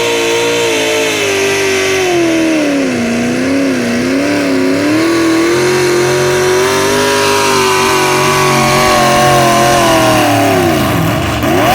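Pulling truck's engine at high revs under full load as it drags the sled down the track. The revs dip and waver about three seconds in, pick back up and hold, then drop sharply and climb again near the end.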